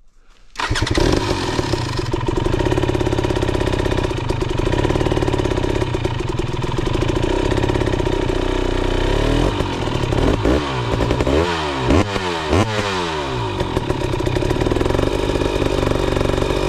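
Dirt bike engine running loud and steady, starting abruptly about half a second in, with a series of quick revs about nine to thirteen seconds in as the bike works up a rocky ledge.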